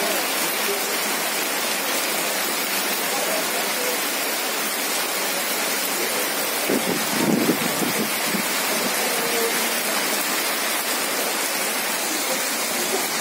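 Heavy rain pouring down, a dense, even hiss with no let-up, with a brief louder low rush about halfway through.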